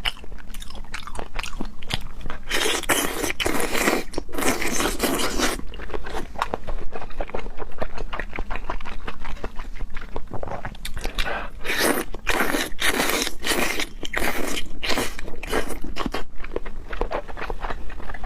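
Close-miked eating of seafood: chewing and biting, with many short wet mouth clicks and several longer noisy stretches of crunching and scraping.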